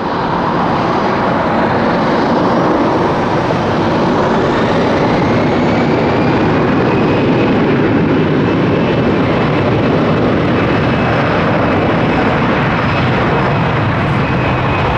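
Jet airliner engines: a loud, steady rush with a faint high whine in it, coming in abruptly and holding at full strength.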